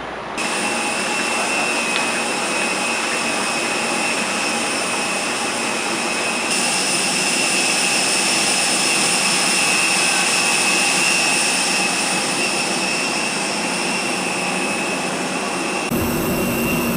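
Jet airliner engines running: a steady rushing noise with high, constant whining tones. The sound changes abruptly in level and tone three times, where the recording is cut.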